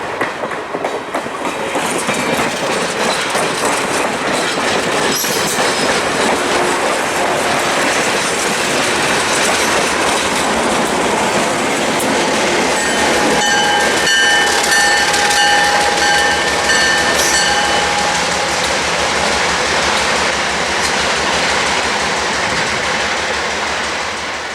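A train passing close by: steady rumble and clatter of steel wheels on the rails. A high squeal of wheels against rail rises over it for several seconds about halfway through.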